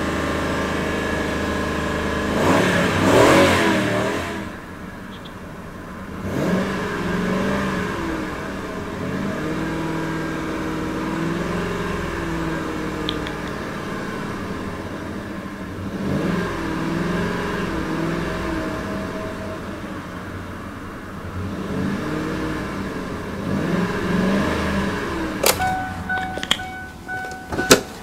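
A 2002 Mercury Mountaineer's 4.6-litre SOHC V8 revved repeatedly in park, rising to about 3,000 rpm and dropping back several times, running smoothly. Near the end a click is followed by a steady chime tone.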